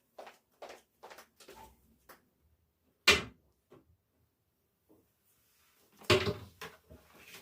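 Household handling sounds: a run of light knocks and clicks, a sharp knock about three seconds in, then a louder cluster of knocks and clatter near the end.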